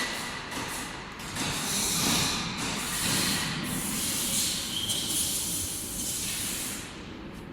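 A steady hissing rush of noise that wavers in loudness and drops away near the end.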